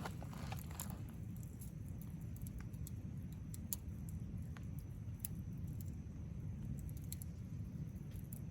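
Wood campfire crackling, with scattered sharp pops and ticks over a steady low rumble.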